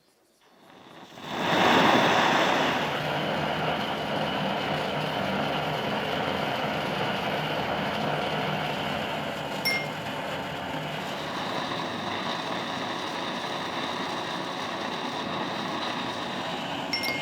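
A power tool starting up about a second in, then running steadily with a continuous hiss. Two brief clicks come partway through and near the end.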